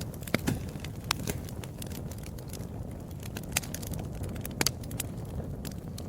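Wood fire crackling in a fireplace: scattered sharp pops, a few louder than the rest, over a steady low rumble of the flames.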